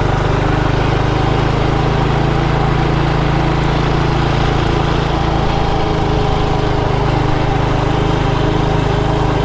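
Motorbike engine running steadily while riding at an even speed.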